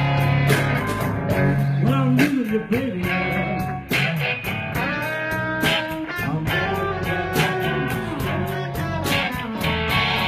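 Blues band playing: an electric guitar lead with bent notes over bass and drums keeping a steady beat.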